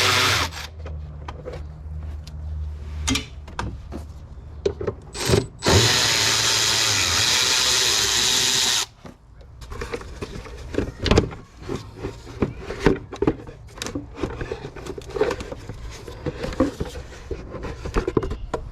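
Handheld power driver spinning, a short run that stops just after the start and a steady run of about three seconds near the middle, taking out bolts. Between and after the runs, light clicks and clatter of tools and parts being handled.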